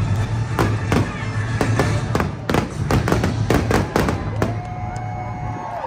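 Fireworks going off in quick succession, sharp bangs and crackles over show music with a steady bass. The bangs stop about four and a half seconds in, and a long held note comes in near the end.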